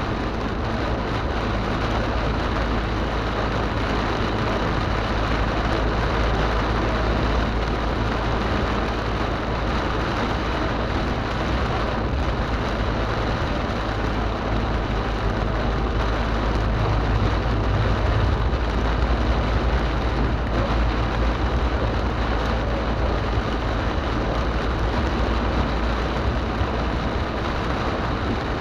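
Heavy rain beating on a moving car, over the steady low rumble of the car driving on a wet road.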